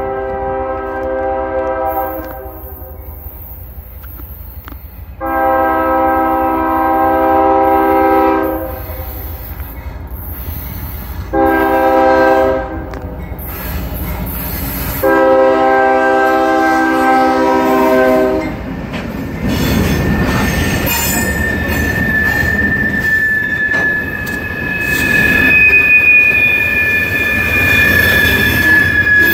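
CSX freight locomotive horn sounding the grade-crossing signal: long, long, short, long. Then the lead locomotives rumble past, and steel wheels squeal in a long, high, steady note as the manifest train rolls by.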